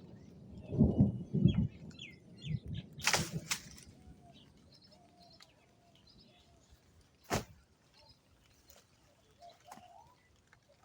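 Birds chirping faintly in the background, with a couple of dull thumps about a second in and two sharp clicks, one near three seconds and one about seven seconds in.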